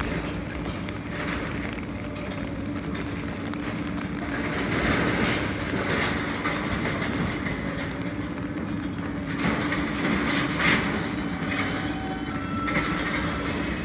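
New York City subway train on the L line running along the track, with steady running noise and wheels clattering over rail joints. A faint thin squeal is heard briefly near the end.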